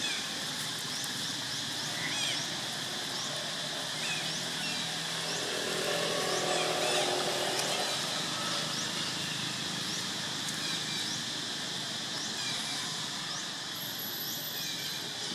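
Outdoor ambience: a steady high buzz of insects with many short, quick chirps scattered throughout. From about five seconds in, a low humming tone swells for a few seconds and fades again.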